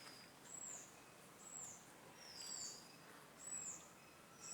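Faint high chirps repeated about once a second, each a short arching note, some with a lower falling note after it: a small bird calling in the background.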